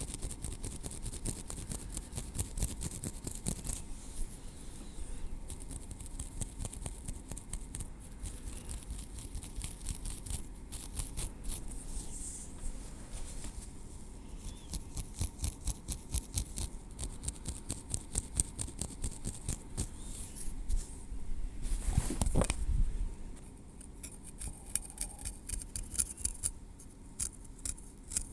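Tweezers working through hair on a scalp, close to the microphone: a dense run of soft, rapid clicks and scratches. A louder rubbing sound lasting about a second and a half comes near the end.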